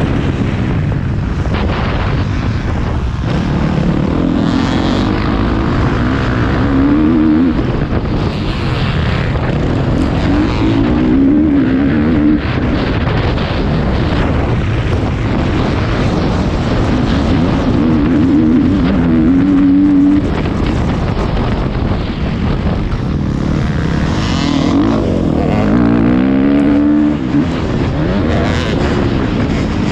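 Motocross bike engine revving up and falling back over and over as the rider works round the track, heard from a helmet-mounted camera.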